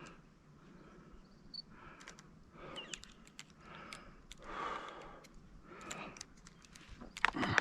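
A person breathing heavily in repeated puffs while walking the trail, with footsteps crunching on gravel and rock near the end.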